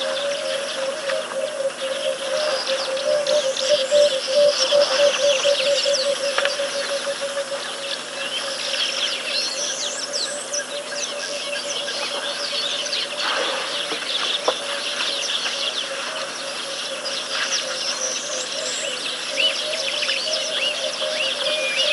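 Many wild birds chirping and whistling together, with a low, fast-pulsing call repeating steadily through the first half before fading.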